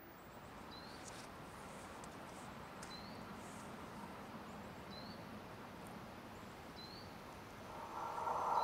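Quiet outdoor background with a faint short rising chirp about every two seconds; in the last second an ÖBB S-Bahn electric multiple unit approaches, its running noise rising sharply.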